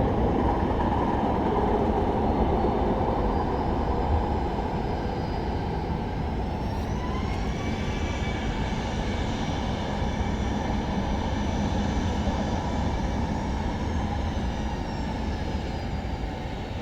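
Jet aircraft engines running with a dense rush of noise. A whine of several tones rises about seven seconds in and then holds steady.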